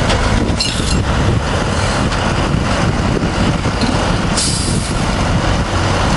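Heavy truck engine running steadily with a deep rumble. A short burst of hissing air comes about four and a half seconds in.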